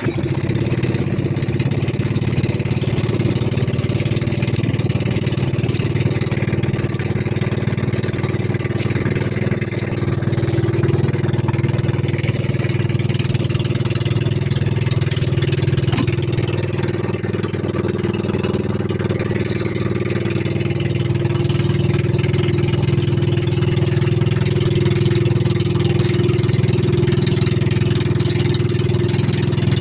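A fishing boat's engine running steadily at a constant speed, a little louder in the second half.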